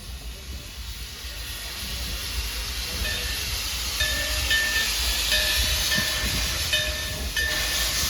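Steam locomotive running, with a steady hiss of steam over a low rumble, growing louder. From about three seconds in, a short high tone repeats every half second or so.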